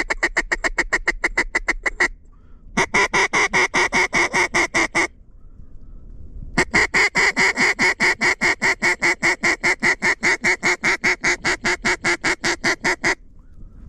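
Hand-blown mallard duck call (DRC Harlot) sounding three runs of rapid, evenly spaced quacks, about five a second. The last run is the longest. It is a calling cadence used to pull passing ducks in to the decoys.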